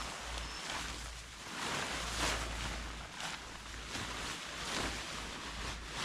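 Wind gusting over the microphone: a rushing noise with a low rumble underneath that swells and eases every second or so.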